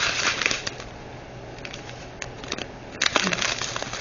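Small plastic bags of diamond-painting drills crinkling as they are handled, once at the start and again about three seconds in, with faint clicks in the quieter stretch between.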